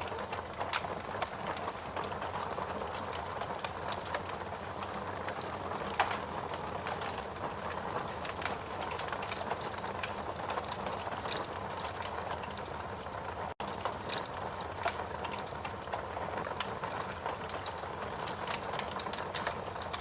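Log fire burning in a fireplace: a steady hiss with frequent small crackles and a louder pop about six seconds in. The sound cuts out for an instant about two-thirds of the way through.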